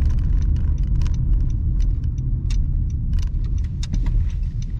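Road noise inside a moving car: a steady low rumble with scattered light clicks and rattles.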